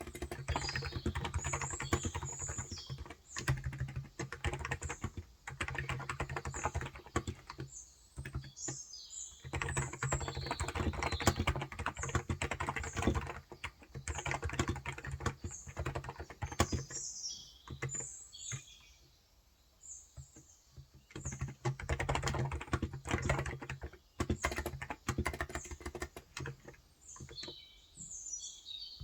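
Typing on a Cox Endeavor electro-capacitive (contactless) tenkeyless keyboard with 35 g switches: quick runs of key presses broken by short pauses, with a longer pause about two-thirds of the way through. Birds chirp in the background throughout.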